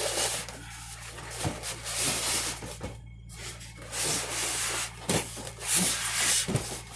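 Cardboard box and packaging being handled, rubbing and scraping irregularly as the model airplane is pulled out, with a brief break about three seconds in.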